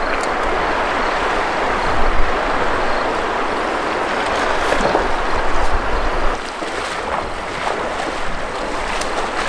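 Steady rush of a river's flowing water, an even noise with no break.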